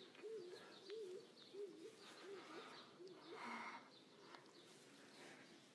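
Faint bird calls: a low rising-and-falling note repeated roughly every half second that dies away about three seconds in, with faint higher chirps.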